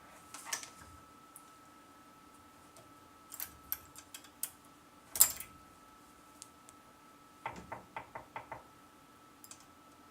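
Metal lathe parts being handled and fitted during reassembly of a Schaublin 70 headstock: scattered clinks and clicks, the loudest a sharp knock about five seconds in, then a quick run of about seven small clicks. A faint steady hum sits underneath.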